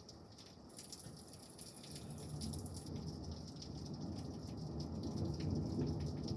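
Thunder rumbling and growing louder over steady rain, with raindrops ticking on a nearby surface.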